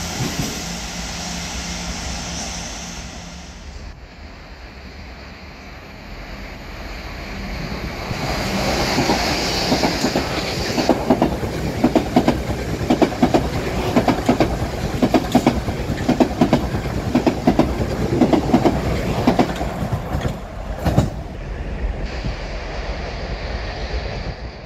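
A passenger train running past, its wheels clicking in quick rhythm over the rail joints, loudest from about eight seconds in until about twenty seconds.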